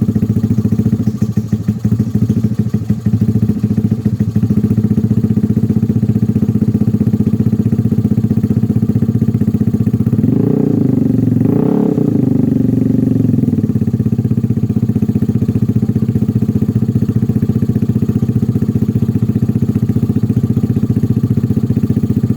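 Vespa Primavera 3V scooter's single-cylinder four-stroke engine idling steadily through a Shijiro aftermarket exhaust, with two short revs about ten and twelve seconds in.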